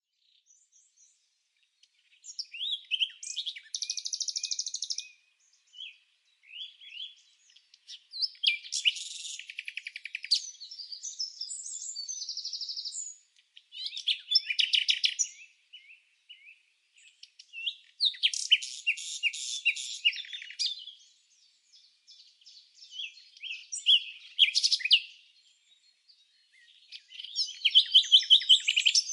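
A small songbird singing in separate phrases of fast, high chirps and rattling trills, each a second or two long, with short silent pauses between them.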